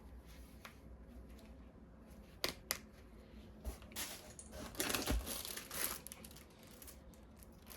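Packaging being crinkled and torn open. Two sharp clicks come about two and a half seconds in, then a louder stretch of crinkling.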